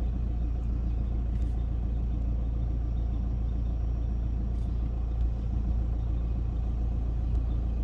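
A steady low rumble with a faint hiss above it and a few faint ticks.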